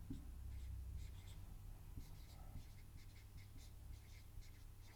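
Faint scratching of a pen or marker writing or drawing, in short irregular strokes, over a low steady room hum.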